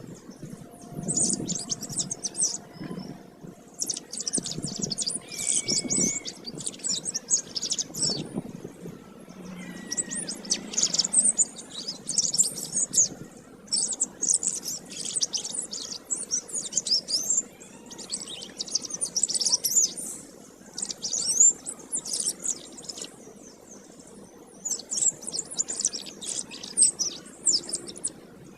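Canary singing in long bouts of rapid, high-pitched trills and warbles, with short pauses between bouts.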